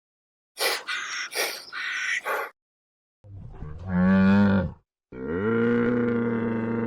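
A bovine mooing: a short moo about three seconds in, then a long, steady moo starting about five seconds in. Before them come four short, harsh calls in quick succession.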